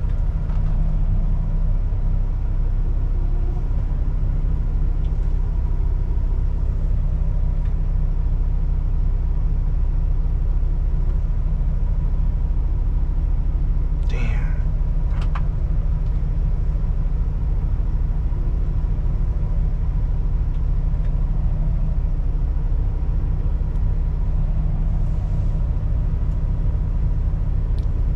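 Semi truck's diesel engine running at low speed, heard as a steady low rumble from inside the cab, with a brief high squeal about halfway through.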